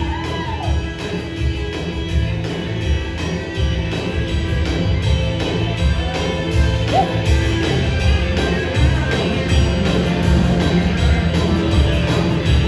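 Live band playing a country song's instrumental passage between sung lines, with steady bass and a lead line that slides in pitch now and then.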